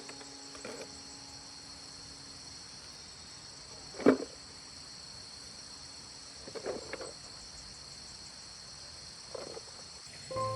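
Insects chirring steadily in the background, broken by a few short knocks or thuds: a sharp one about four seconds in, then softer ones near seven and near nine and a half seconds.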